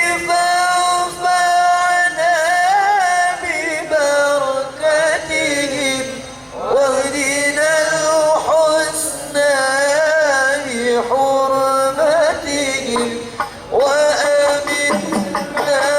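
Solo voice singing an Arabic devotional qasidah in long, ornamented melismatic phrases, the notes held and wavering, with short breaths between phrases.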